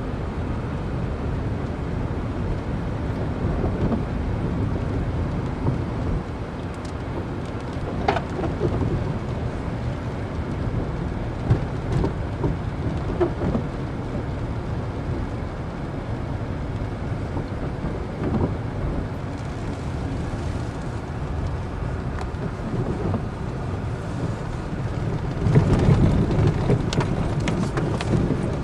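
A car driving in a wind storm: a steady low rumble of road and wind noise with scattered knocks and taps. It grows louder for the last few seconds.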